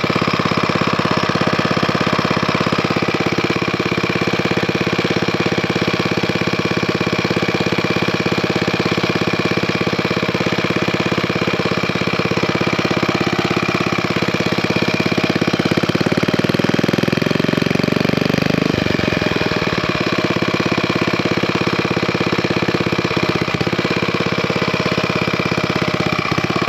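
Villiers Mark 9 stationary engine running steadily on its own, its note shifting briefly about two-thirds of the way through.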